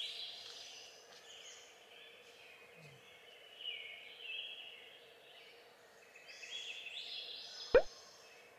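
Birds singing in short, repeated chirping phrases over a faint steady hum, with one sharp click near the end.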